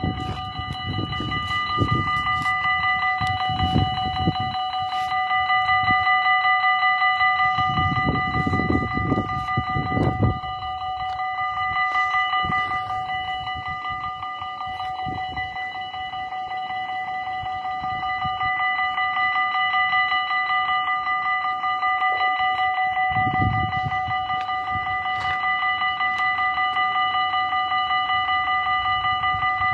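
Railway level-crossing bell ringing continuously with a fast, even beat. Low rumbles swell under it about eight seconds in and again near twenty-three seconds.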